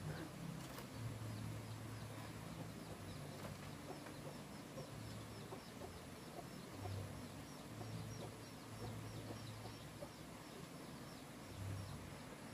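Faint outdoor background: a small bird chirping a long run of short, high notes, a few a second, that stops about two-thirds of the way through, over a low drone that comes and goes.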